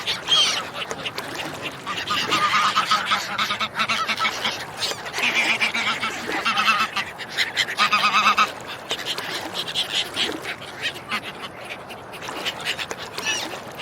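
Ducks and swans calling in many short, overlapping calls, busiest for the first eight seconds or so and thinning out after that.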